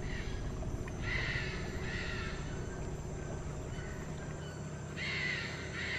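A bird calling outdoors: two calls about a second apart, about a second in, and two more near the end, over steady low background noise.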